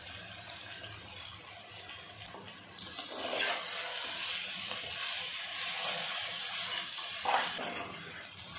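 Noodles sizzling in hot oil in a pressure cooker as they are stirred and tossed with a slotted metal spoon. The sizzle grows much louder about three seconds in, with a couple of brief scrapes of the spoon against the pan.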